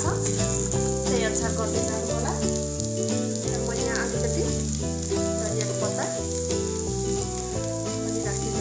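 Spiced potato-and-pea samosa filling sizzling in a stainless steel pan as a wooden spatula stirs it, under instrumental background music.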